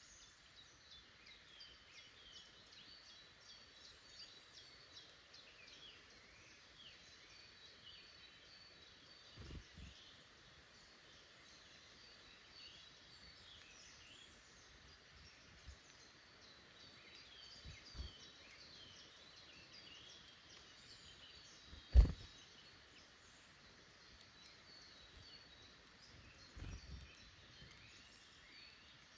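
Woodland birds calling and singing, many small high chirps throughout, over a steady outdoor hiss. A few soft low thumps and one sharp knock about two-thirds of the way through.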